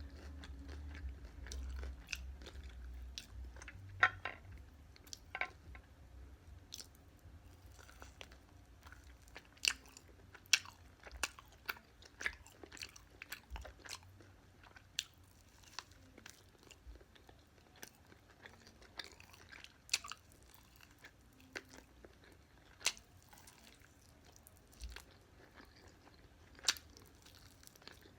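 Close-up chewing of crispy fried BBQ chicken, with sharp irregular crunches and crackles of the breading between quieter wet chewing.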